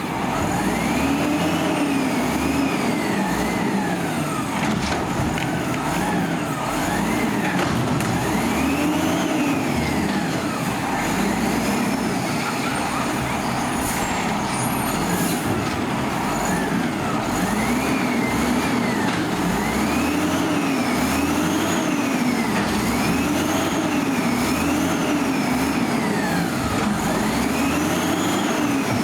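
Diesel engine of a Peterbilt 320 garbage truck with an Amrep Octo body, revving up and down over and over. Each rise and fall takes about one to two seconds.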